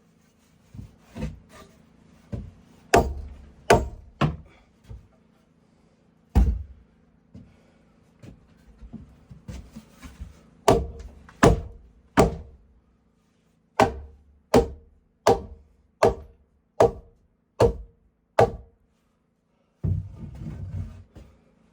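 Hammer blows on wood, likely driving nails into door framing timber: scattered knocks at first, then a steady run of about seven blows less than a second apart. A short rougher scraping or shuffling noise comes near the end.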